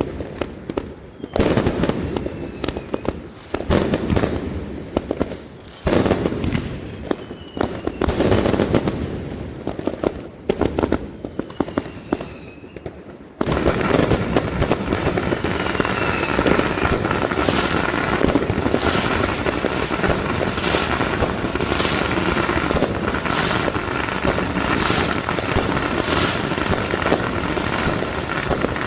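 Fireworks going off: separate booming bursts every second or two, with a few faint whistles. About halfway through, a sudden, continuous, dense barrage of crackling bangs takes over.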